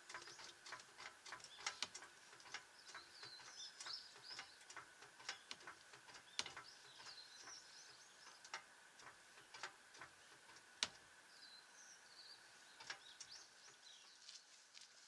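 Very quiet: faint bird chirps come in short clusters, over scattered light clicks and taps. No impact wrench runs.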